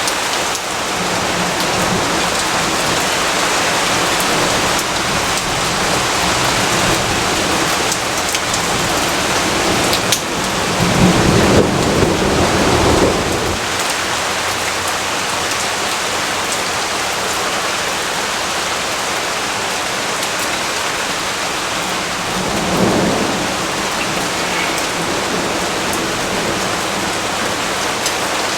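Steady heavy rain with rolling thunder: a long low rumble of thunder about ten seconds in, lasting a few seconds, and a shorter, fainter rumble later on.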